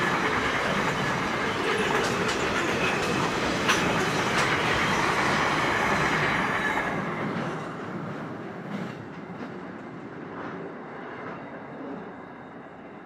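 Freight train boxcars rolling past with a steady rumble and sharp wheel clicks. The sound fades away after about the halfway point as the last wagons pass and recede.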